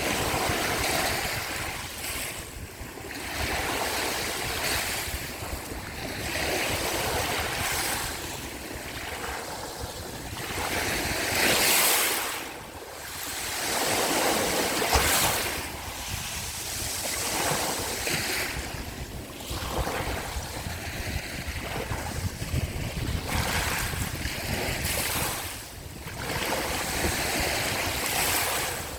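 Sea waves washing onto the shore, the surf swelling and falling back every few seconds, with wind rumbling on the microphone.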